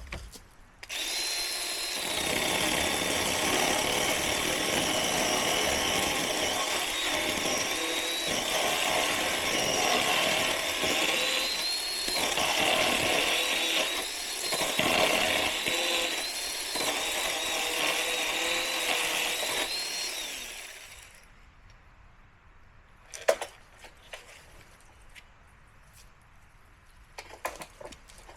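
Small electric chainsaw running and cutting wood, its high motor whine dipping now and then as the chain bites; it starts about a second in and stops after about twenty seconds. A few knocks follow.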